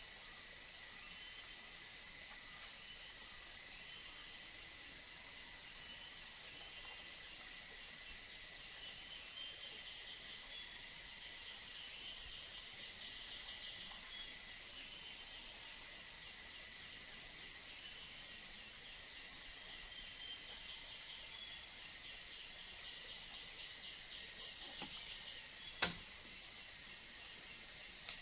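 Steady, high-pitched chorus of jungle insects, with a fainter repeating chirp beneath it. A single sharp click sounds near the end.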